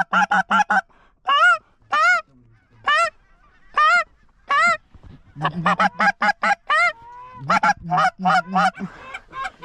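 Goose honking and clucking in fast, even runs, with about five single rising honks about a second apart in the middle.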